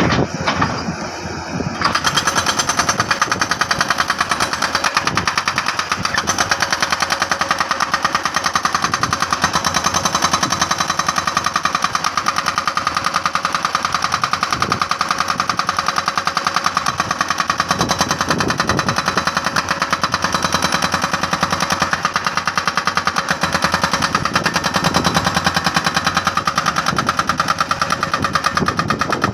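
Jackhammer hammering steadily into hard rock in rapid, continuous blows, starting about two seconds in.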